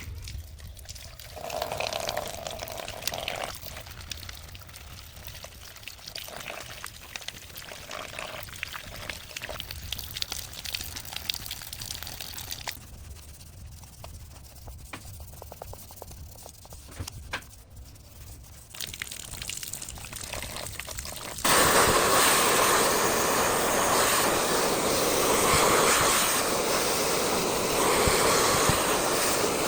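Water trickling and splashing with scattered small knocks, then a loud steady rush of spraying water that starts abruptly about 21 seconds in.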